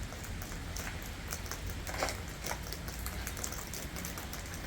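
Light rain falling, with scattered faint drips and taps.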